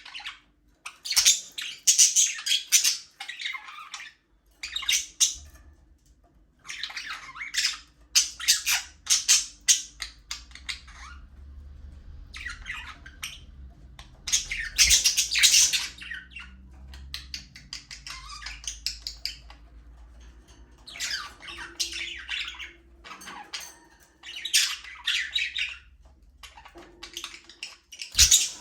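Budgerigars chirping and squawking together in repeated bouts of rapid, high chatter, each a second or two long with short gaps between.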